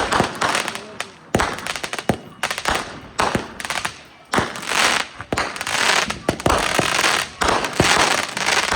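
Consumer fireworks going off in a rapid barrage: repeated sharp bangs, each trailed by a spell of crackling, one after another without a break.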